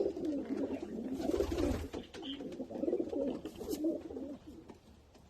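Domestic pigeons cooing, several overlapping low, wavering coos that fade out near the end. A brief low rumble comes about a second and a half in.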